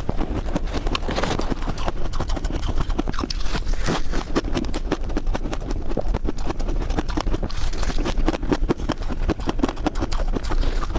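Ice being chewed: a steady run of many sharp crunches and crackles.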